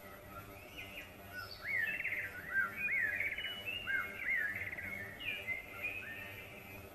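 Several birds chirping: many short, quick chirps that rise and fall in pitch and overlap one another, busiest through the middle and thinning near the end.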